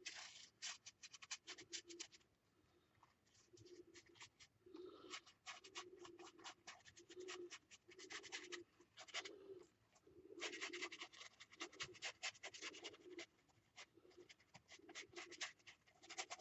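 A paintbrush scrubbing paint back and forth on a gessoed paper page. It makes faint, rapid scratchy strokes in rhythmic runs of about one stroke a second, with a short pause about two seconds in.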